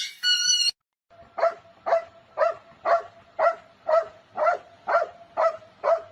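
A brief snatch of music cuts off, then a dog barks over and over at an even pace, about two barks a second.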